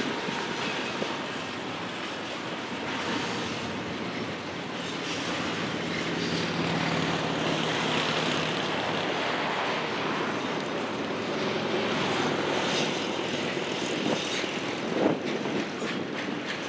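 Union Pacific double-stack container freight train rolling past, a steady rumble and rattle of wheels and cars, with a few sharper knocks about three-quarters of the way through.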